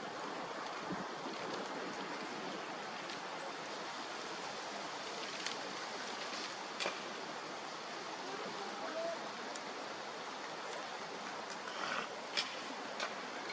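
Bonfire burning with a steady hiss and rush, broken by sharp crackles and pops from the wood several times.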